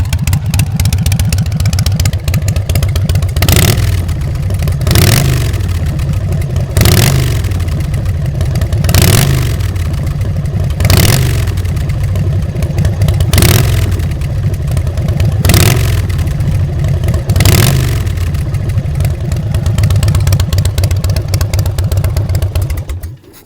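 2005 Big Dog Chopper's carbureted 117 cubic inch S&S V-twin running through Mean Mother's exhaust pipes, blipped up from idle about eight times, roughly every two seconds. The sound cuts off near the end.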